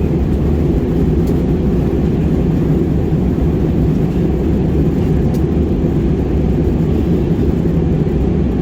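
Airliner cabin noise in flight: a steady low drone of the engines and the air rushing past the fuselage, heard inside the passenger cabin.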